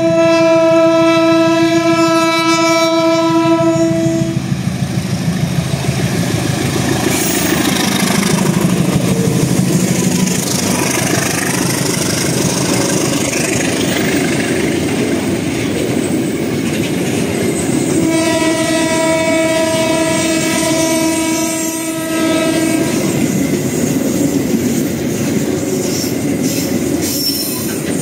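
A diesel locomotive's horn sounds a steady chord-like blast for about four seconds. The train then runs past with the heavy noise of wheels on rail. About two-thirds of the way through, the horn gives a second blast of about five seconds while the cars keep rolling by.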